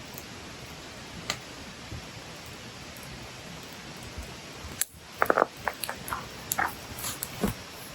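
Wood fire burning with a steady soft hiss, a single pop early on, then a quick run of sharp crackles and pops from burning firewood from about halfway through.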